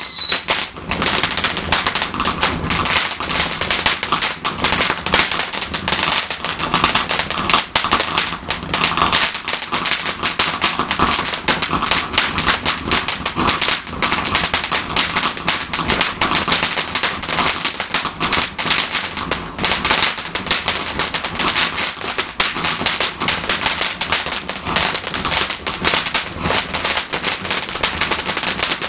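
Garden firework fountain spraying, with a dense, steady crackle and hiss throughout. A falling whistle dies away just at the start.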